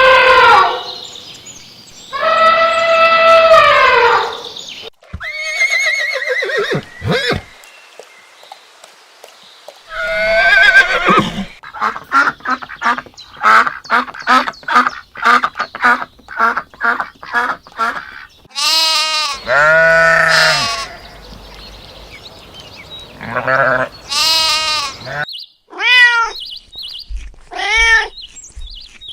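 A run of animal calls from several different animals one after another: long drawn-out calls at the start, a quick series of short calls at about three a second in the middle, one long loud call around two-thirds of the way through, and short arched calls near the end.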